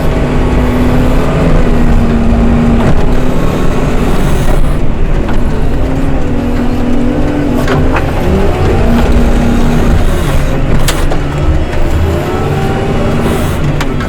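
Diesel engine of a snow-removal machine running loud and working, its pitch rising and falling as it revs under load, with a few sharp clanks along the way.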